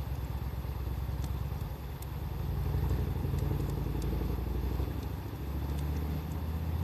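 Wood fire burning, with a few faint crackles and pops, under a louder low rumble that swells and eases.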